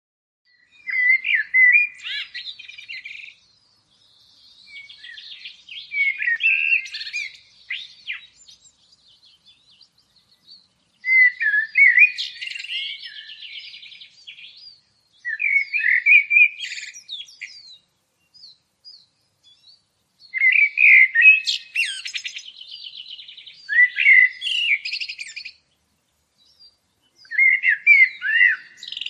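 A songbird singing in separate warbling phrases of two to four seconds, about six of them, with short silent pauses in between.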